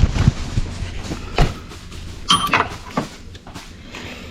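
A few separate knocks and clanks of metal tools and parts being handled while working on the engine, one with a brief metallic ring midway.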